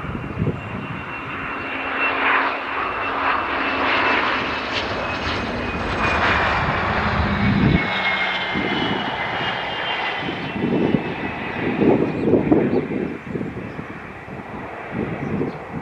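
Jet airliner passing close by: steady engine noise with a high whine that slowly falls in pitch as it goes past.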